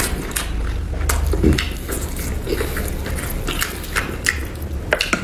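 Close-miked chewing of boiled mutton with the skin on, with many short, wet clicks of the mouth and lips.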